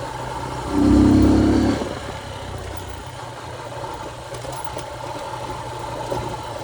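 Motorcycle engine running steadily while riding, with a steady hum. About a second in, a loud, flat-pitched sound lasting about a second rises over it.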